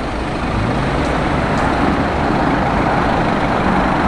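Street traffic: the steady noise of vehicles going by, with a heavy engine running close by, growing louder about half a second in.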